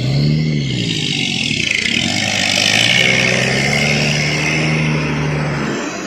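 Heavy truck's diesel engine passing close under load on a steep climb: a brief rev at the start, then a long steady pull with a loud hiss of noise that peaks in the middle and eases near the end.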